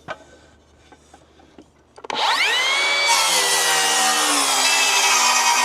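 Power saw, most likely a circular saw, starting about two seconds in: its motor whine climbs quickly to speed and then holds as it cuts through wood for a rafter cut. Before that there are only faint clicks of handling.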